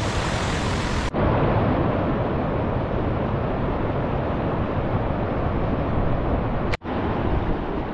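Steady rushing water of a waterfall. It breaks off for an instant twice, about a second in and near the end.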